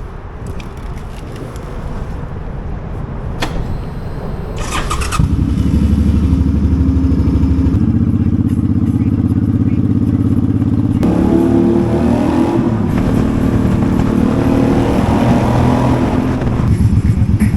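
Suzuki Boulevard C50T's 805 cc V-twin with Vance & Hines Cobra pipes started about five seconds in after a brief crank, then idling steadily; a little after halfway it runs at a higher, louder speed.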